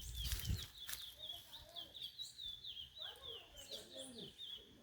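A bird singing a steady series of short, high, down-slurred notes, about four a second. There is a low thump right at the start.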